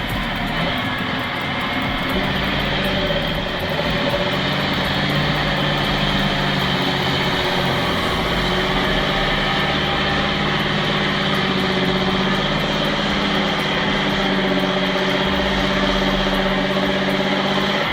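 Vehicle engine running steadily at high revs under load, a constant droning hum.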